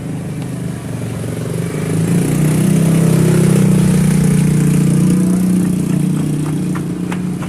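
A motor vehicle engine running close by, a steady hum that grows louder about two seconds in and eases off again near the end.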